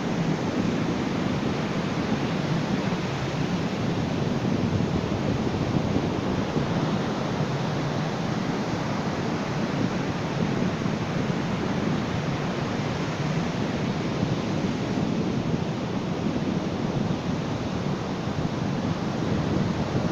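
Ocean surf washing on a beach: a continuous rushing of waves, fairly even in level with gentle swells and no single sharp crash.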